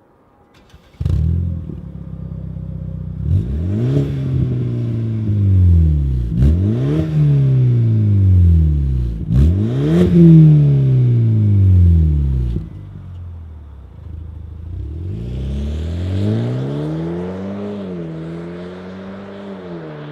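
BMW F30/F32 2.0-litre four-cylinder engine through a Hooker Blackheart axle-back exhaust with straight-through mufflers: the engine starts about a second in and idles. It is then revved in three quick blips that fall back each time, and near the end the revs climb more slowly and hold.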